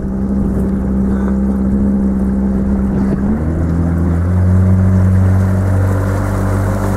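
Motorboat engine running steadily at speed; its note shifts about three seconds in and settles into a deeper, stronger hum from about four seconds.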